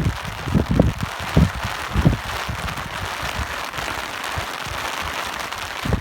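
Steady rain hiss with wind buffeting the microphone in irregular low gusts, more of them in the first couple of seconds than later.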